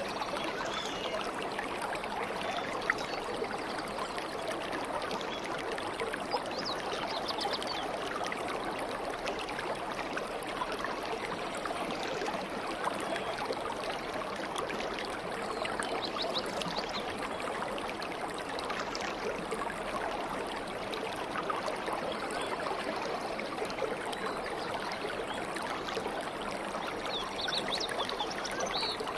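A stream of water flowing and trickling steadily, with birds chirping faintly a few times.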